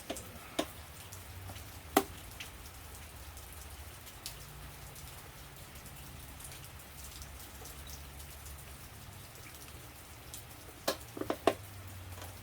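Steady rain patter with scattered drips, broken by a few sharp clicks: one loud one about two seconds in and a quick cluster of three near the end.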